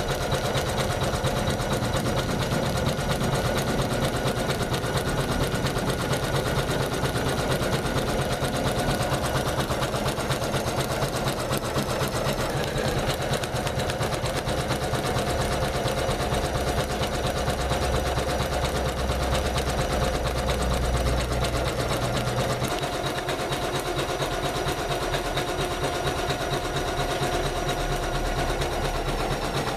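Janome MC500E computerized embroidery machine stitching at speed: a fast, even needle rhythm. Its tone shifts slightly about twelve seconds in and again about twenty-three seconds in.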